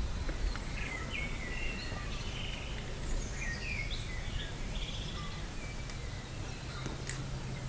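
Small birds chirping and calling in short, quick phrases over a steady low outdoor hum and hiss.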